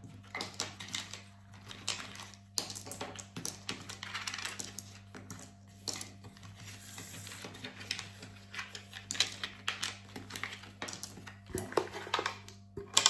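Plastic Connect 4 counters clicking and clattering against each other as they are counted out by hand: many light, irregular clicks.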